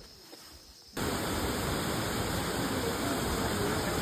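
Steady rush of running water. It cuts in suddenly about a second in, after a moment of quiet.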